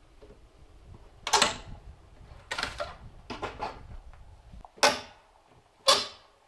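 Sharp knocks of a tool striking wood, a few seconds apart. Single heavy blows alternate with quick runs of lighter taps.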